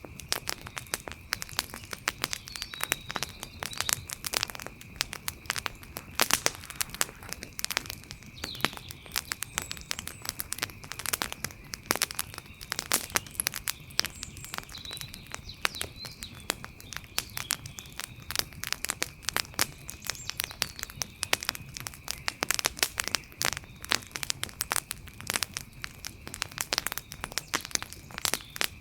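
Wood fire crackling: a dense, irregular run of pops and snaps, with a steady thin high tone underneath.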